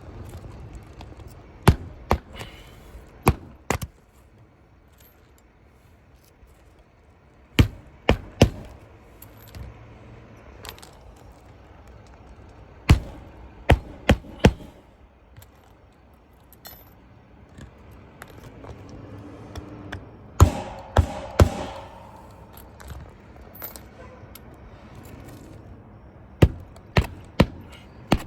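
Sharp clicks or knocks in small clusters of two to four, a new cluster every few seconds.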